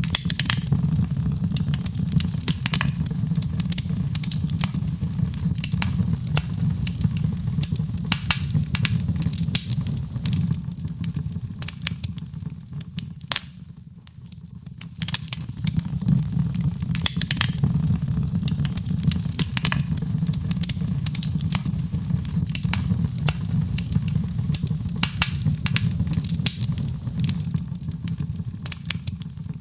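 Wood fire in a fireplace crackling: frequent sharp pops and snaps over a steady low rumble, which eases briefly about halfway through.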